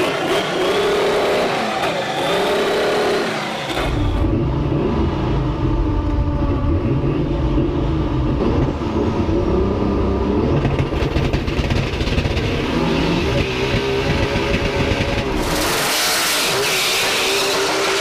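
Twin-VR6 Volkswagen (one VR6 in front, one in the rear) revving at the start line, then launching about four seconds in and accelerating hard down the strip on a drag pass. Near the end the deep engine sound falls away under a hiss.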